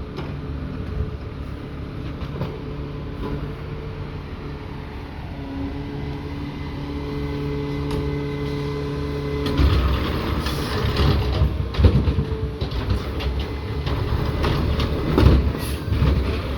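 Garbage truck engine running with a steady hum that steps up in pitch about five and a half seconds in. From about ten seconds in there is louder mechanical clattering and clanking with sharp knocks.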